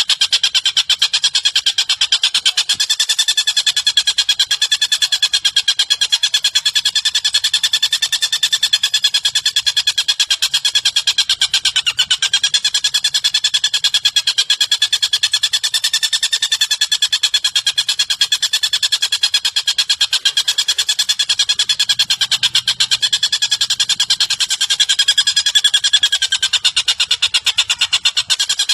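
A recorded bird call looped for song training: one continuous, very fast rattling trill of evenly spaced notes, steady and unbroken throughout.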